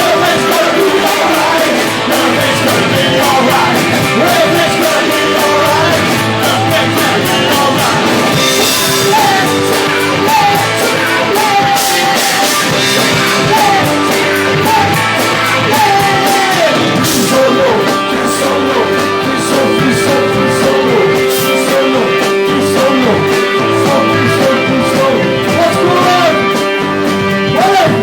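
A live band plays a rock song with guitar, and a singer carries the melody over it.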